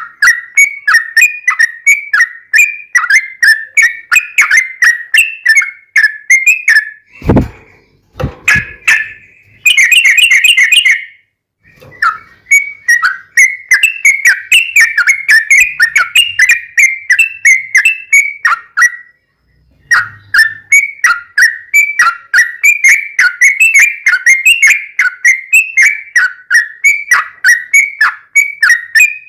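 Yellow-vented bulbul (trucukan) singing long, fast runs of bright chirping whistled notes, several a second. The song breaks briefly a few times. Two low thumps come about seven and eight seconds in.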